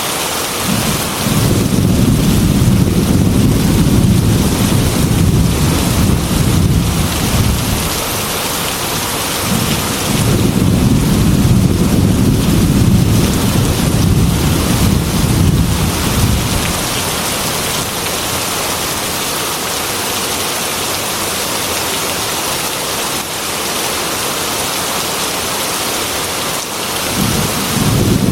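Heavy rain beating against a glass window, a steady hiss throughout. Long low thunder rumbles run over it: one from about a second in to nearly ten seconds, a second from about ten to sixteen seconds, and a third starting near the end.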